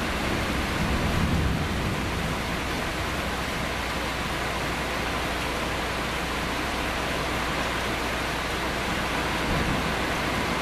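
Heavy rain falling in a steady, dense hiss, with a low rumble of thunder swelling about a second in.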